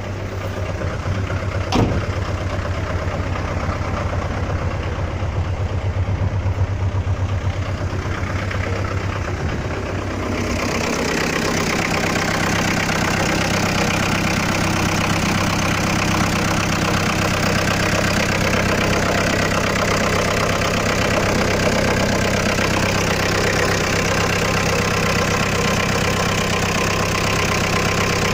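Ford Transit 2.5-litre four-cylinder diesel engine idling steadily. About ten seconds in, the sound turns brighter and a little louder, then holds steady.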